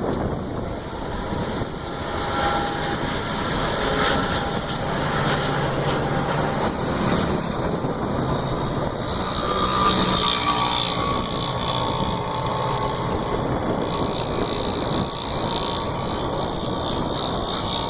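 Passenger train running past with a steady rumble of its coaches on the track.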